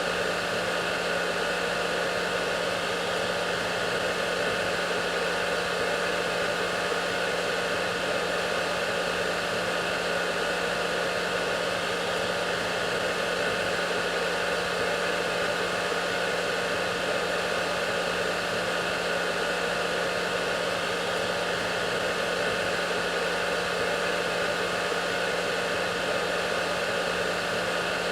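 Hair dryer running steadily: a constant rushing blow with a steady motor hum and whine underneath.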